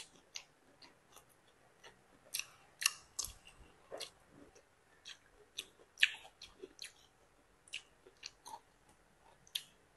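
A person chewing Chinese kale: irregular sharp crunches and wet mouth smacks, a few a second.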